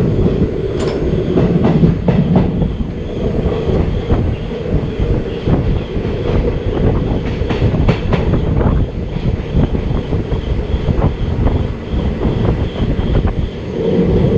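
Indian Railways passenger coach running at speed, heard from its open doorway: a steady heavy rumble of wheels on rail with irregular clicks and clatter from the track.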